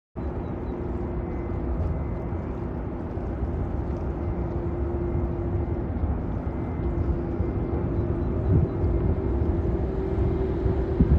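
Jet airliner engines rumbling steadily during a takeoff, with a steady hum over the low rumble and wind gusting on the microphone near the end.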